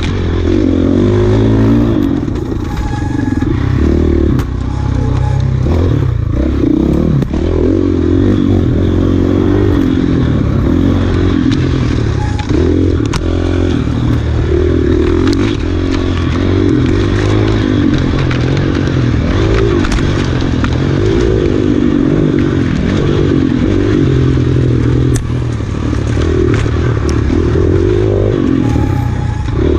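Enduro dirt bike engine being ridden hard off-road, revving up and dropping back again and again as the rider works the throttle, with scattered knocks and clatter from the bike over rough ground.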